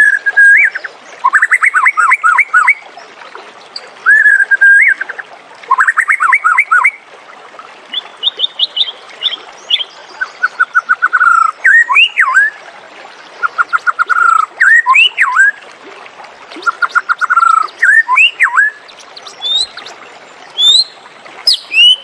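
White-rumped shama singing a loud, varied song: repeated phrases of a clear or upswept whistle followed by a quick run of rapid notes, one phrase every couple of seconds. Fainter high-pitched chirps sound behind it.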